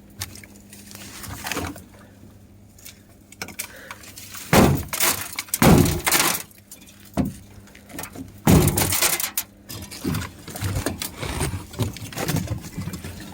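Footsteps crunching through frozen brush and ice, with twigs snapping: a run of small cracks and rustles broken by a few louder crunches about four and a half, six and nine seconds in.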